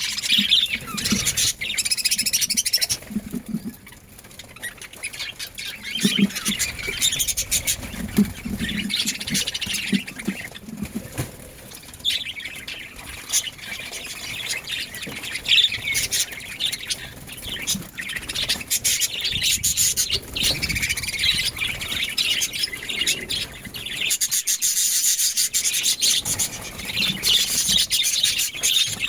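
Budgerigars chirping and chattering in a rapid, continuous run of short calls and squawks.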